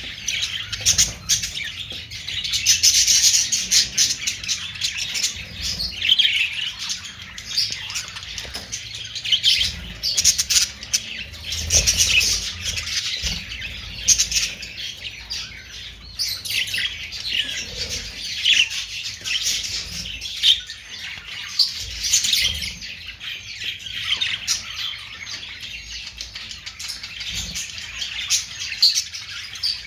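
A group of budgerigars (Australian parakeets) chattering and chirping without pause, many short high calls overlapping.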